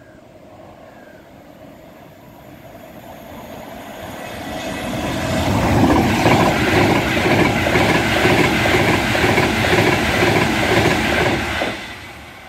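Avanti West Coast express train running through at speed on electrified main line: rushing noise of the carriages and wheels on the rails, building over about five seconds, then dropping away sharply near the end as the last carriage passes.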